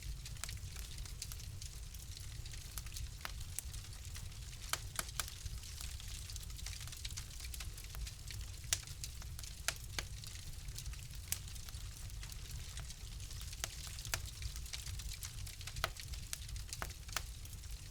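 Wood fire burning in a fireplace: a steady low rumble and hiss of the flames with irregular crackles and sharp pops scattered throughout.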